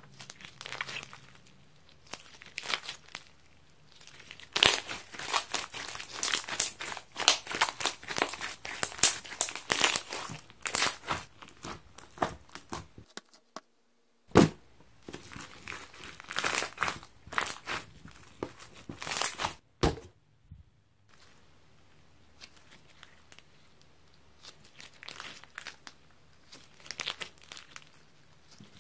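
Sponge slime made with high-elasticity sponge pieces crackling and crinkling as it is squeezed and handled, a dense run of small crackles. It breaks off into silence twice, with one sharp snap just after the first break, and is quieter in the last part.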